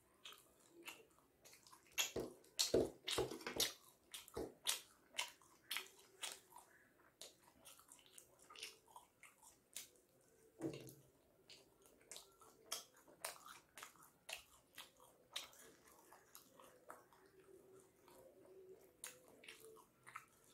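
Close-up chewing of chicken momos: wet smacking and clicking mouth sounds, with a cluster of louder smacks a few seconds in.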